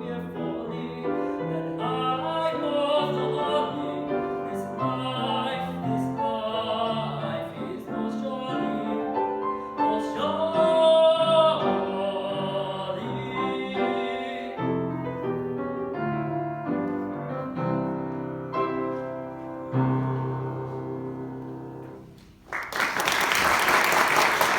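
Classical art song for solo voice and piano: a singer with vibrato over piano accompaniment, holding a long high note about ten to twelve seconds in, before the music winds down and fades about 22 seconds in. Then a sudden loud rushing noise takes over.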